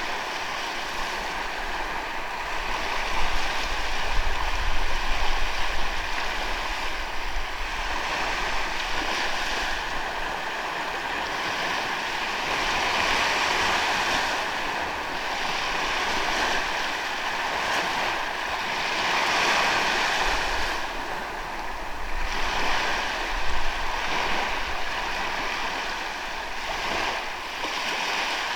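Ocean surf washing onto a sandy beach, a steady rush that swells and eases every several seconds as the waves come in.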